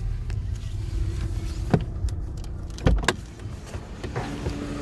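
Garbage truck running, with a low engine rumble and several sharp knocks, and a steady whine that starts about four seconds in.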